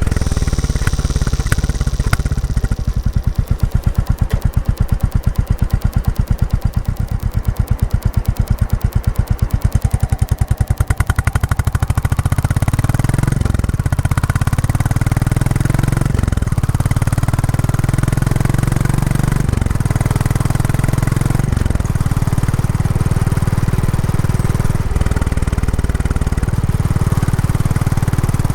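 Royal Enfield Classic 350's single-cylinder engine running through its stock exhaust while riding. For the first dozen seconds each exhaust beat can be heard separately at low revs. After that the note runs smoother, with several brief dips and breaks like gear changes.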